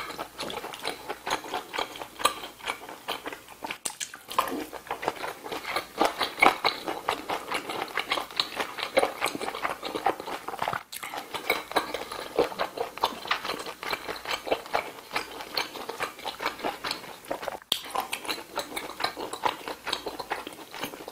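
Close-miked wet chewing and mouth smacks from eating braised kimchi stew, a dense run of small clicks that goes on without a break.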